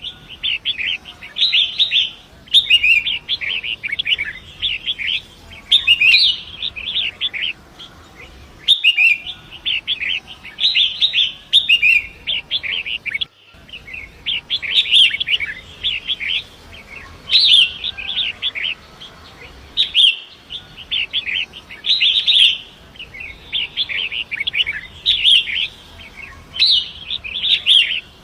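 Long-tailed shrike (pentet) singing: rapid, chattering phrases of quick notes, each about a second long, repeated almost without pause, over a faint steady hiss of flowing river water.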